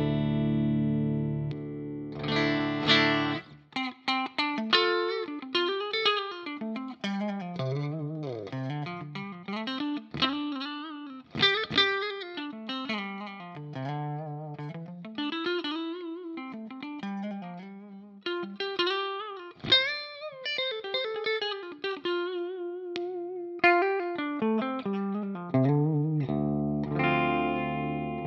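Electric guitar, a Telecaster with two humbucker pickups, played through effects. Chords ring out at the start and again about two seconds before the end; in between runs a single-note lead line with string bends and slides.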